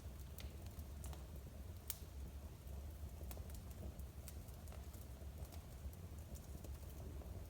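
Wood fire crackling in a fireplace: irregular sharp pops and snaps, a sharper one about two seconds in, over a steady low rumble.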